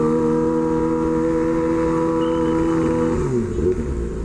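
Kawasaki Ninja ZX-25R's 250 cc inline-four running at a steady speed through an SC Project exhaust, then falling in pitch about three seconds in as the throttle is rolled off.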